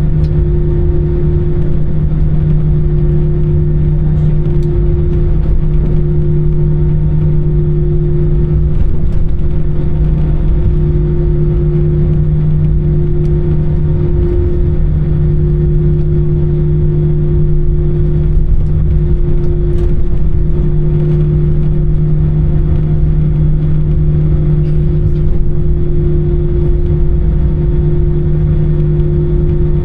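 Steady engine drone inside an Airbus A320's passenger cabin, a constant low hum with a rumble under it.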